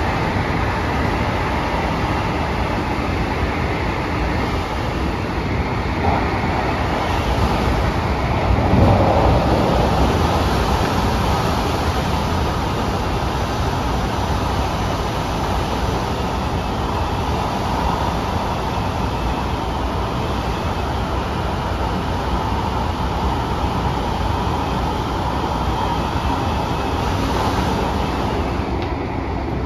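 Inside a moving MTR CAF metro train car: constant rushing wind noise over the low rumble of the running train, swelling briefly about nine seconds in. The wind noise is air leaking in around the car, which the uploader calls very severe.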